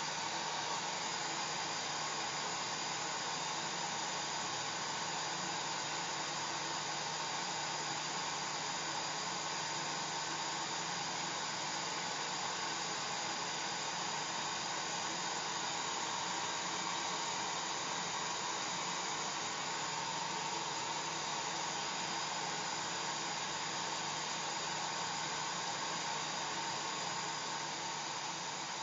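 Hair dryer running steadily, a continuous rush of blown air with a faint steady hum from its motor.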